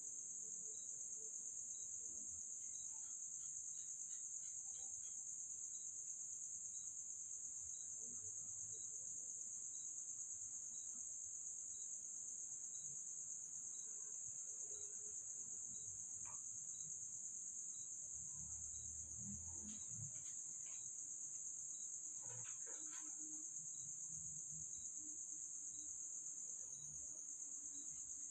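Steady, high-pitched chorus of crickets, with a faint regular ticking and a few soft knocks and rumbles now and then.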